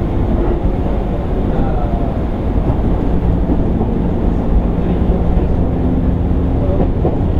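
Steady running noise inside a JR East 205 series 600 subseries motor car: wheels rumbling on the rails, with a faint steady hum from the traction motors and gears that comes in about halfway through.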